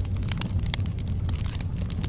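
Wood logs burning in a fireplace: a steady low rumble of flame with frequent small sharp crackles and pops.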